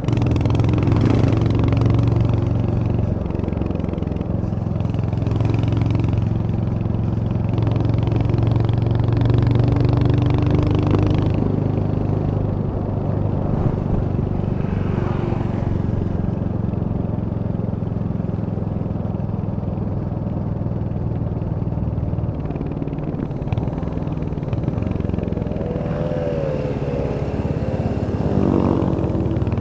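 Royal Enfield Hunter 350's single-cylinder engine running under way, strongest for the first ten seconds or so, then easing off and picking back up near the end. A brief wavering tone sounds a few seconds before the end.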